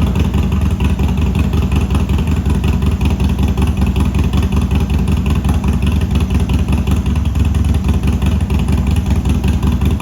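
Harley-Davidson V-twin running steadily through a newly installed Bassani Super Bike exhaust, with a deep, even rumble made of rapid exhaust pulses.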